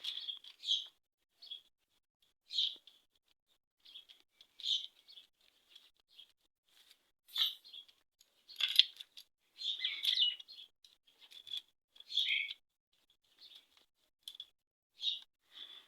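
Small birds chirping in short, repeated calls every second or so, with a few sharp metallic clicks about halfway through.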